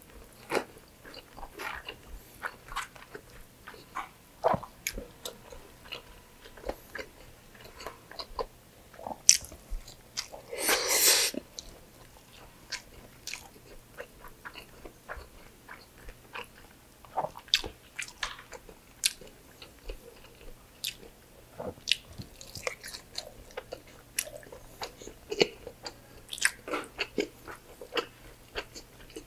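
Wet chewing and lip-smacking of braised pork belly adobo and rice eaten by hand, made up of many small smacks and clicks. About eleven seconds in, one louder noise lasts about a second.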